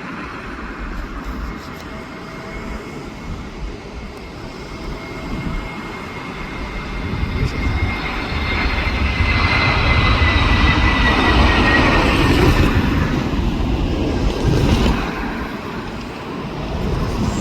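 An airliner passing close by: its engine noise swells over several seconds, peaks, then fades, with a high whine that slowly drops in pitch as it goes past.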